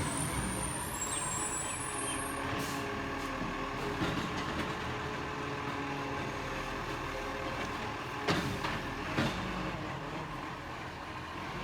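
Rubbish truck engine running steadily, with two sharp knocks about eight and nine seconds in.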